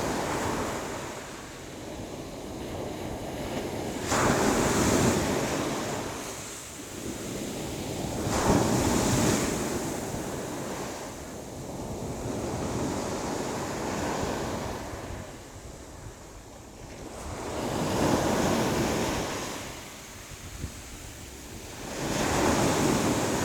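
Sea waves breaking and washing in, each surge swelling and fading, about every four to five seconds.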